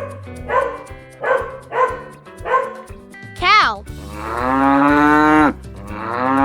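A dog barking about five times, then a cow mooing twice in long, low calls, over light background music.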